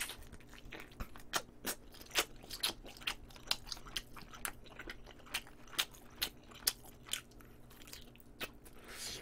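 Close-miked chewing and biting as a piece of galbijjim (Korean braised short rib) is gnawed off the bone: a string of sharp mouth clicks and smacks at irregular spacing, a few a second.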